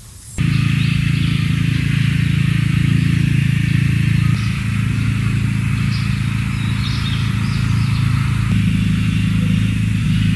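A machine switched on suddenly: a steady motor hum with a rushing, airy hiss over it, shifting slightly in pitch about four seconds in and again near the end.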